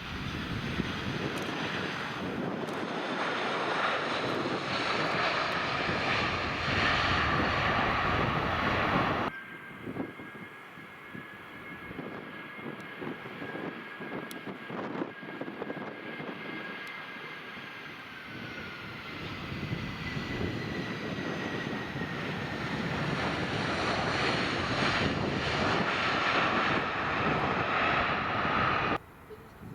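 Airliner engines heard in two loud passes, each a rushing roar that builds and then cuts off suddenly. The first has a slowly falling pitch. Between them is a quieter stretch with a steady high engine whine whose pitch drops partway through.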